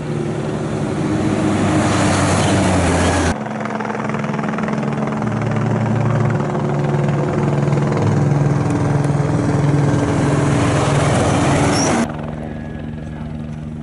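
Dakar rally race trucks' engines running hard at speed with heavy road noise, in shots that cut abruptly about three seconds in. Near the end the sound drops to a quieter steady drone.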